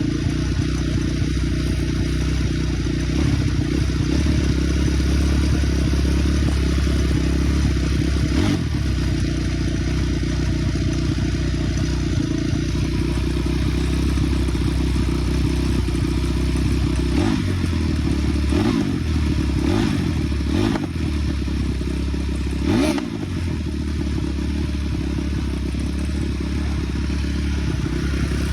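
Small petrol engine of a ridden off-road vehicle running steadily under load. About two-thirds of the way through, the revs dip and climb back four or five times in quick succession.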